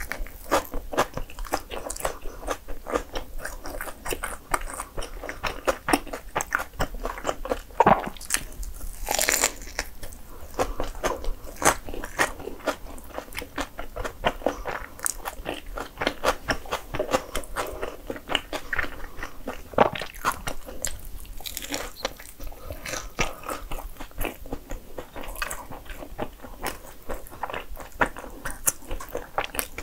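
Biting into and chewing a cream-filled sandwich bagel, with many small mouth clicks and smacks throughout.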